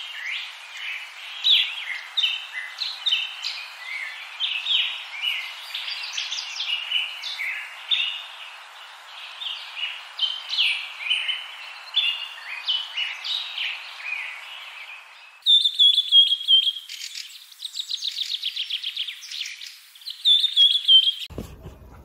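Many birds chirping and singing at once, a dense tangle of short, varied calls. About fifteen seconds in it changes to a different set of songs: clear whistled notes and a rapid trill. The birdsong cuts off shortly before the end.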